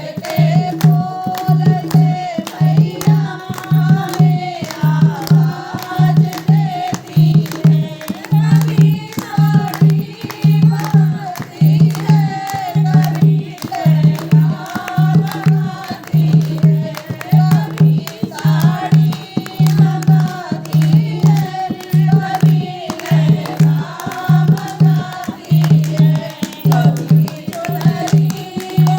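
Hindi devotional bhajan to the Mother goddess: singing over a steady, even drum beat.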